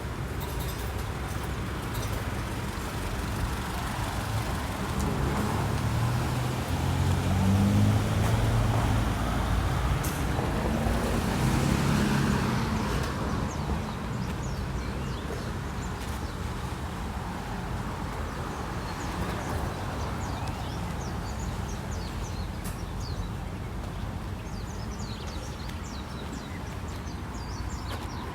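Street traffic: road vehicles passing, their engines swelling louder for several seconds about a quarter of the way in, then a steady traffic wash with short high chirps near the end.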